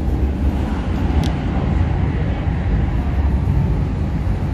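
Interior noise of an MTR K-Train electric multiple unit running between stations: a steady low rumble, with one brief faint click about a second in.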